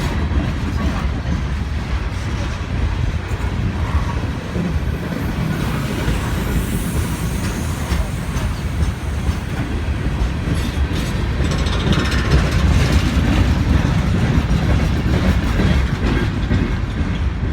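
A train passing on the tracks, its wheels on the rails making a steady, continuous noise heavy in the low end, with occasional faint clicks.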